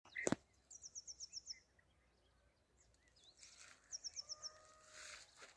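A small bird singing a short, high trill of about seven quick falling notes, twice, with fainter chirps of other birds around it. A sharp click comes right at the start.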